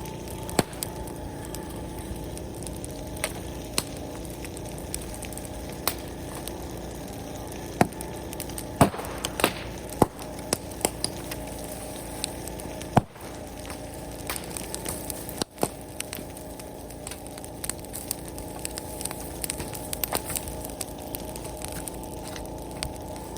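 Open bonfire of brush wood burning with a steady rush, crackling with frequent sharp snaps and pops, a few of them louder.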